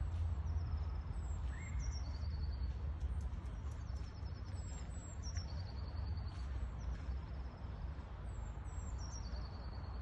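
A songbird singing short, high, quick phrases of falling notes, three times about every three to four seconds, over a steady low rumble.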